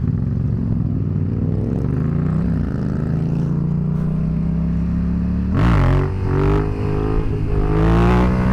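Yamaha FZ-07's parallel-twin engine running while being ridden: a steady engine note, a quick rev up and down about five and a half seconds in, then rising again as it accelerates near the end.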